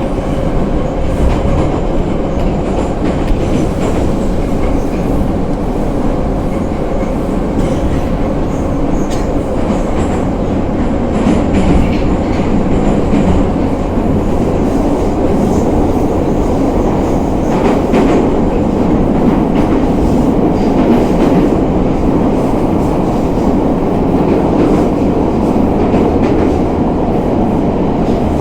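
Moscow Metro 81-717/714 'Nomernoy' train running steadily, its wheels knocking over the rail joints in a clickety-clack.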